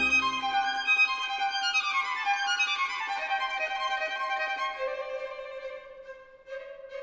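Background music led by a violin: a quick run of notes falling in pitch, then a long held note, with short notes picking up again near the end.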